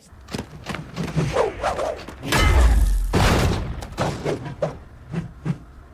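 Action sound effects: a run of crashes and thuds with a loud, deep boom about two and a half seconds in.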